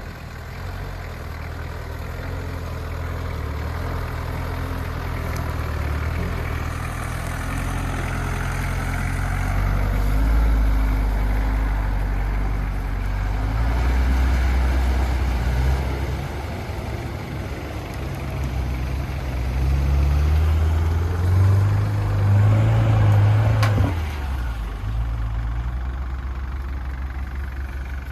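Off-road 4x4 engine working under load while crossing a shallow river and climbing the steep bank. The revs climb and peak about twenty-two seconds in, then drop off suddenly with a sharp knock near the end.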